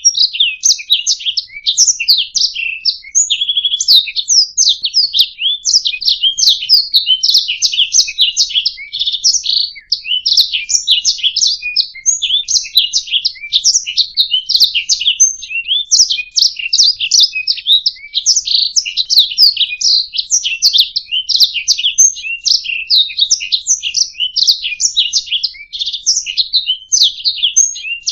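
Domestic canary singing a continuous, rapid warbling song of quick chirps and trills, pausing briefly about ten seconds in.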